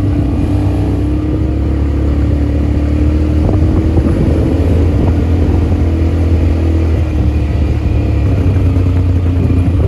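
ATV engine running steadily while riding, its pitch drifting slightly up and down.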